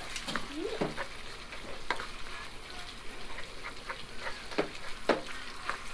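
Pork adobo sizzling in a frying pan while a spoon stirs it, with sharp clicks and scrapes against the pan scattered about once a second.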